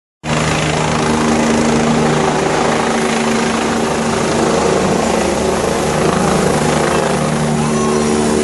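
Helicopter running loud and steady, its rotor beating evenly under a steady engine whine.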